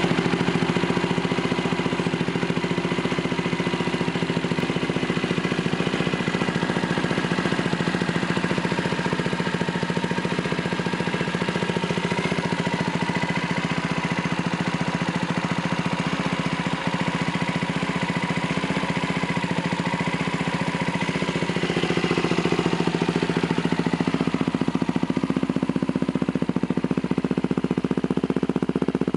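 Honda FTR250 motorcycle's single-cylinder four-stroke engine idling through its muffler, a steady fast exhaust beat that grows a little louder about two-thirds of the way through.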